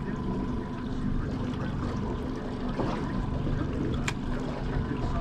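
Boat engine running steadily with water sounds around the hull; a single sharp click about four seconds in.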